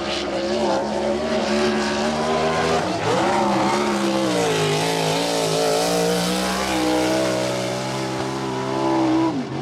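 Non-wing sprint car's V8 engine running hard on a time-trial lap of a dirt oval. Its pitch drops as the driver lifts for the turns, about three seconds in and again near the end, then climbs back under throttle.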